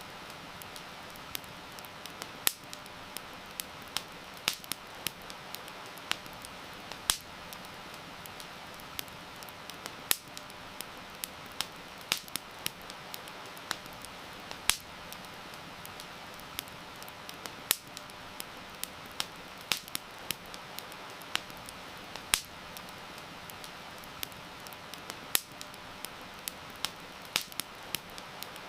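Wood campfire crackling, with irregular sharp pops one to three a second, over a steady hiss of rain.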